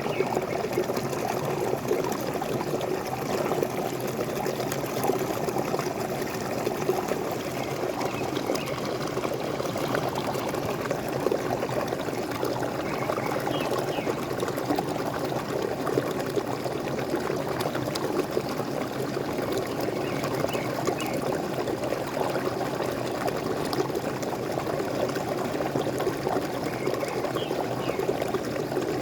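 Waterfall: water pouring and splashing steadily, without letting up.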